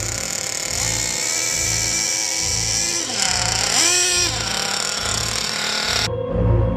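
Small nitro RC engine screaming at high revs, with one quick rise and fall in pitch about four seconds in, as from a throttle blip. The engine cuts off abruptly near six seconds, leaving background music with a pulsing beat.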